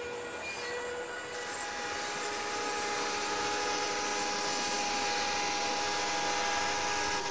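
Railway train sound: a steady noisy rush with several held high tones over it. The tones shift about a second and a half in, and the sound grows louder, then it changes abruptly at the very end.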